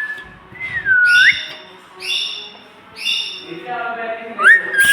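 Pet green parrot whistling and calling: a sliding whistle that dips and rises, then three short calls about a second apart, and a quick rising whistle near the end.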